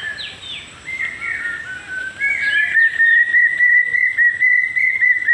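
Birds singing: one bird gives a long, fast run of short whistled notes that grows louder about two seconds in and keeps going, with other birds chirping around it.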